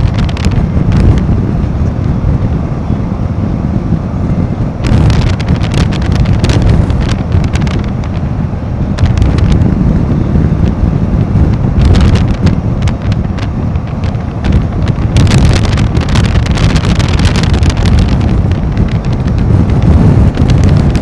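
Heavy wind buffeting the microphone while riding a Royal Enfield Himalayan 450 motorcycle, over a steady low rumble. The gusts grow stronger about five seconds in and again near the end.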